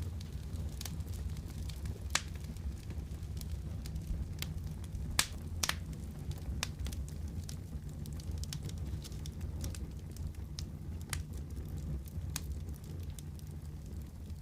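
Wood fire crackling and popping over a steady low rumble of flame, with sharp pops scattered irregularly, the loudest about two seconds in and around five to six seconds in.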